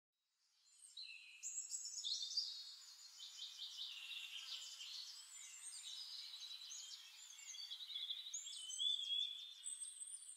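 Songbirds singing: a dense run of quick, high chirps and trills, fading in over about the first second.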